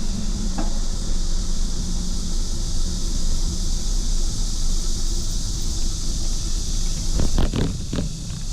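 Wind buffeting the microphone and road rumble while riding a bicycle at speed, steady throughout. A quick cluster of knocks or rattles comes about seven seconds in.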